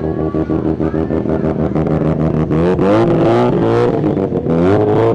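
Car engine idling steadily, then revved up and down a few times, getting louder in the second half.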